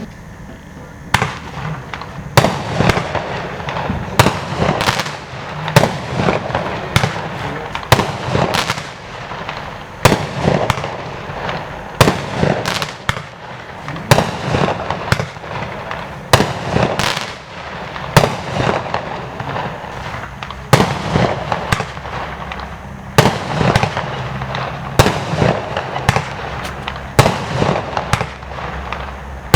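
Stienen 'Stimmungsmacher' consumer firework firing without pause: a run of sharp bangs, about one or two a second, over steady crackling.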